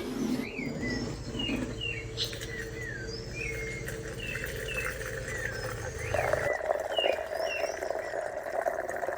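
Birds chirping, many short calls that glide up and down in pitch, over a steady low hum. A steady rushing noise joins about six seconds in.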